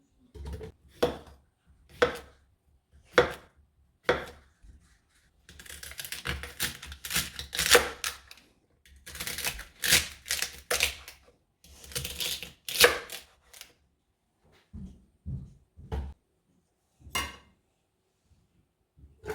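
Knife chopping food on a cutting board. It starts with single cuts about a second apart, goes into a long run of quick chops, and ends with a few scattered knocks.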